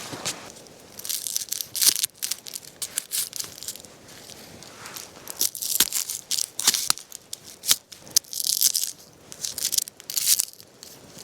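Irregular crinkling and tearing noises in repeated short bursts, with scattered sharp clicks between them.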